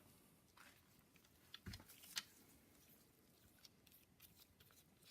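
Quiet handling of small metal engine parts: a few light clicks and taps, with a dull knock and then a sharper metallic click about two seconds in.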